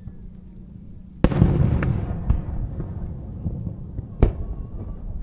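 Aerial fireworks shells bursting. A loud bang about a second in trails off into a rumble with a few smaller cracks, and a second sharp bang follows about three seconds later.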